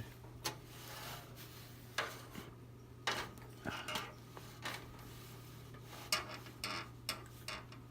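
Scattered clicks, knocks and rubbing as a switched-off 20-inch box fan is handled and turned around, over a steady low hum.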